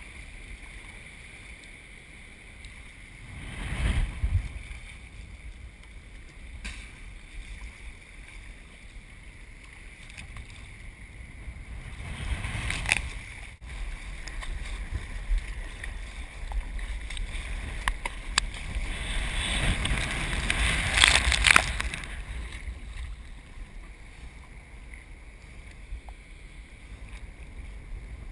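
Ocean surf and wind noise on the microphone, a steady rushing hiss with low rumble. It swells into louder whooshes of breaking whitewater three times: briefly about four seconds in, again around thirteen seconds, and longest and loudest near the end.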